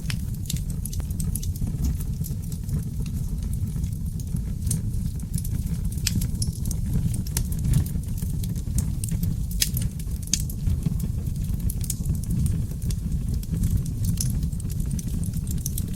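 Wood fire burning in a fireplace: a steady low rush with frequent, irregular sharp crackles and pops from the burning logs.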